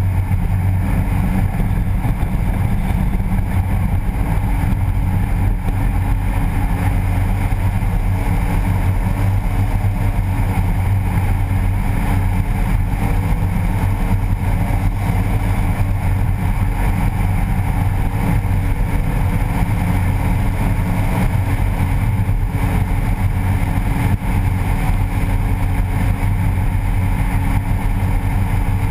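BMW E30's engine running steadily, heard close up from inside the engine bay as a constant low rumble with no big revs.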